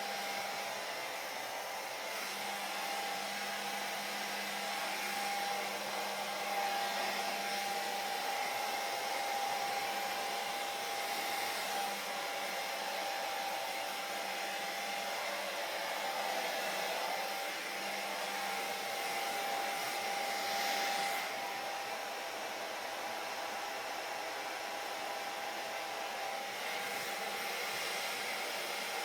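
Hair dryer running steadily: an even blowing rush with a steady motor whine.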